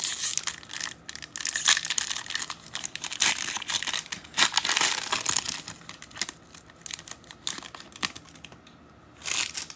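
Foil trading-card packs being torn open and crinkled by hand, an irregular run of crackling and tearing that thins out after about six seconds, with one more short crinkle near the end.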